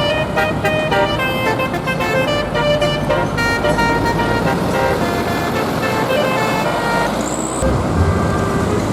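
Road traffic noise with a melody of steady multi-tone notes changing every fraction of a second over it. About seven and a half seconds in the melody thins out and a deeper vehicle rumble takes over.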